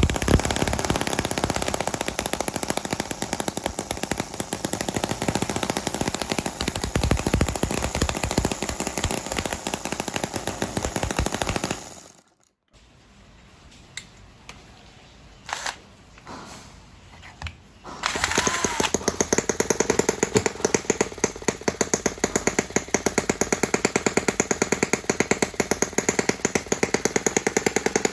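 Small model engine running with rapid, even firing beats. It stops about twelve seconds in, leaving a few faint clicks, and a model engine is running again from about eighteen seconds with a steady beat.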